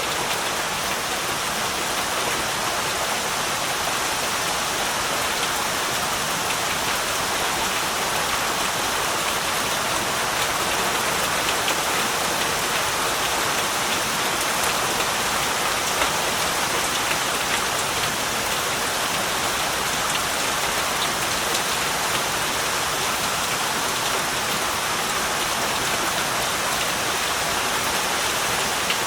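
Heavy rain falling steadily, a dense even hiss of drops with fine patters of individual drops hitting surfaces.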